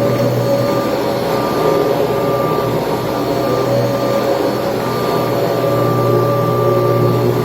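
Kirby Tradition upright vacuum cleaner running steadily: a loud, even motor hum and rush with a whine on top that wavers a little in strength.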